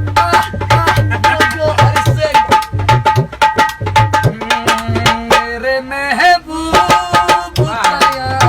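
Tabla played in a fast, dense rhythm. The higher drum rings out on one clear tuned note while the bass drum adds deep thumps between the strokes.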